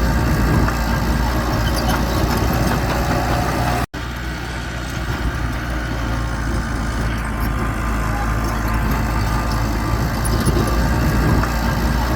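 Bulldozer's diesel engine running steadily, with a sudden brief break about four seconds in where the sound cuts out and resumes slightly quieter.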